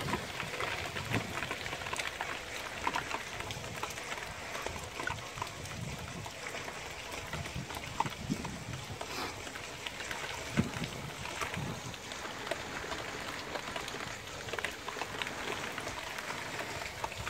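Heavy rain falling steadily, with many small drop impacts heard as scattered ticks.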